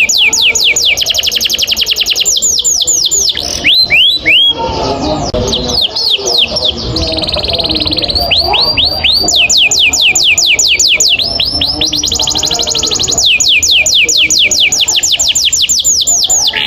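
Domestic canary singing long rolling trills: runs of rapid, evenly repeated high notes, each sweeping downward, lasting several seconds at a time. The trills break off for short pauses about four seconds in and again near twelve seconds, with a few single sweeping chirps between them.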